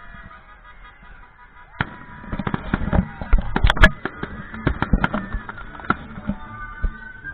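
Fireworks going off: a rapid volley of bangs and crackling reports starting about two seconds in, loudest near the middle, then thinning out, with music playing underneath.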